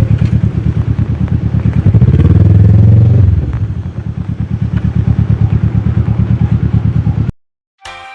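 Kawasaki ER-6f parallel-twin engine running through a full Akrapovic exhaust with a steady pulsing note. About two seconds in it grows louder and higher for about a second as the throttle opens, then eases back. It cuts off suddenly near the end, and music starts.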